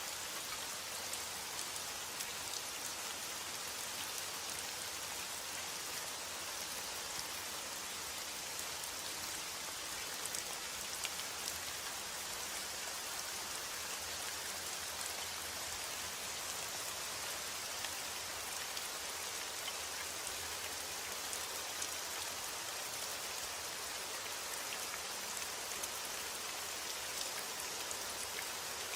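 Steady rainfall, with many small drops ticking on a surface over an even hiss.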